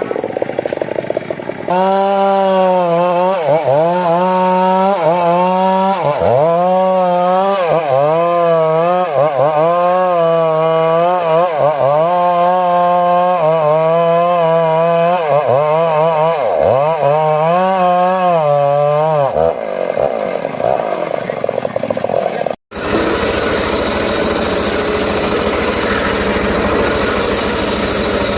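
Two-stroke chainsaw running at high revs while cutting wood, its pitch dipping and recovering over and over as the chain bogs down in the cut. About 20 seconds in the sound breaks off briefly and gives way to a steadier, rougher engine noise.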